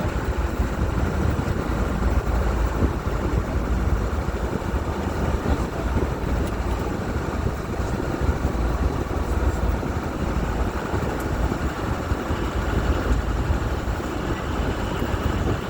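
Amphibious duck boat running along, a steady engine and drive rumble.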